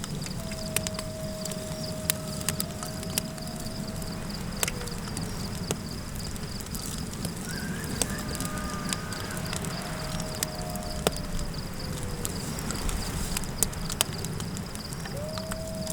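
Campfire crackling with sharp pops over a low wind rumble and a steady faint high tone. Over it come long, drawn-out coyote howls: three of them, each rising, holding its pitch and sliding down. Overlapping higher calls waver partway through.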